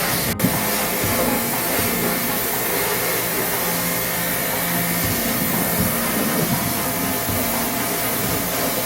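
High-pressure washer spraying water onto an air conditioner's indoor unit, a steady loud hiss of the jet with the washer's pump humming underneath. The sound cuts out for an instant about half a second in.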